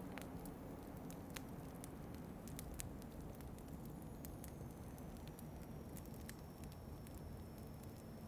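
Wood fire crackling in a fireplace, with sharp irregular pops over a steady low rush of wind.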